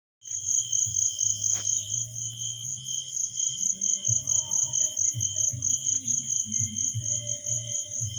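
Insects chirping in a steady, even pulse of about four to five chirps a second, with a low pulsing sound underneath.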